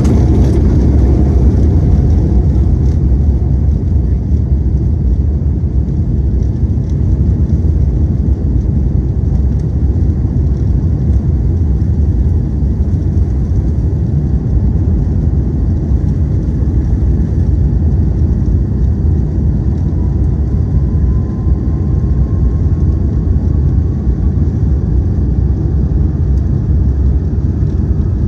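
Boeing 787-9 Dreamliner's twin turbofan engines at takeoff thrust: a loud, steady, deep rumble, with a faint rising whine coming in about two-thirds of the way through.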